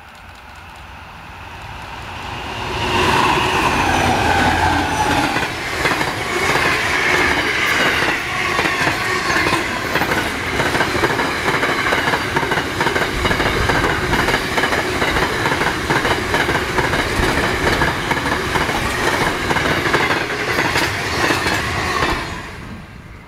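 A container freight train hauled by diesel locomotives passing close by: the locomotive engines build up and go past, then a long run of container wagons rolls by with a rapid clickety-clack of wheels on the rails. The sound falls away suddenly near the end.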